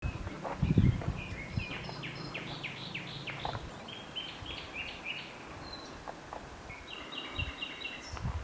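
Songbirds singing: a run of quick down-slurred notes through the first half, then a short series of five even notes near the end. Low thumps about a second in are the loudest sound.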